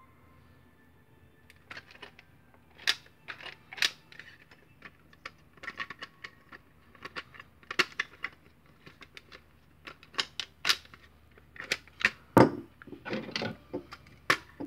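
Hard plastic parts of a Nerf Hammershot blaster being handled and fitted, giving many irregular clicks and knocks, the loudest knock near the end.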